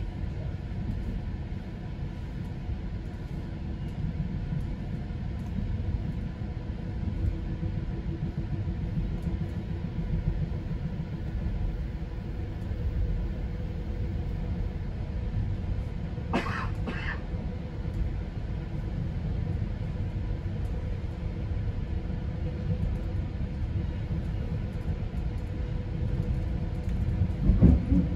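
GO Transit passenger coach running along the track, heard from inside the car: a steady low rumble. About two-thirds of the way through comes a brief hiss, and near the end a louder bump.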